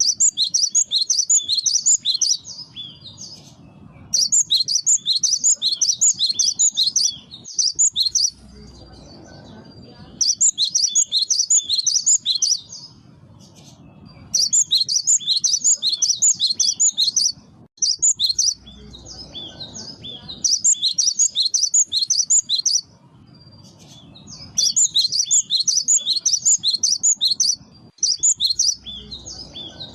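Cinereous tit (gelatik batu) singing its lure song: runs of rapid, high repeated notes lasting a few seconds each, broken by short pauses.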